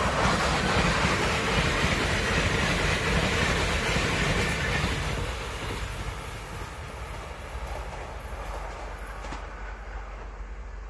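ITX-Saemaeul electric multiple-unit train passing close by at speed: a loud rush of wheels on rail and air. About five seconds in it drops to a quieter, steady rumble as the train draws away.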